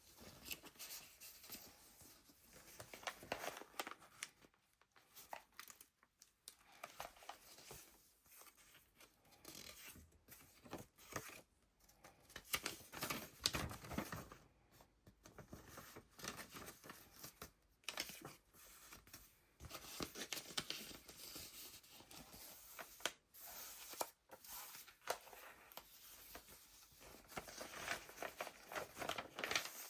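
Pages of a handmade junk journal being turned and handled, with irregular paper rustling and crinkling and small taps that come and go, loudest about halfway through.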